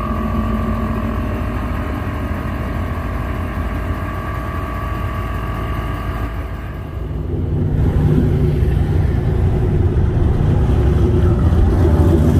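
Cammed C7 Corvette's V8 running low and steady as the car moves off slowly. About seven seconds in, it gives way to a louder, deeper engine drone heard from inside a moving car, building slightly toward the end.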